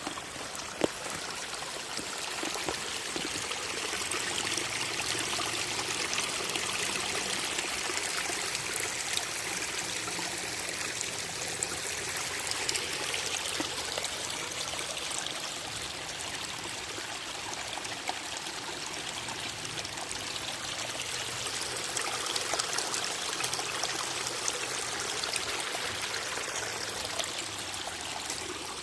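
A woodland stream running steadily.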